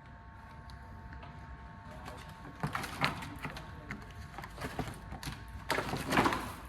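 Metal hand tools clicking, clinking and scraping against car parts in irregular bursts, with a louder scraping rasp near the end, during work on the gearbox and suspension.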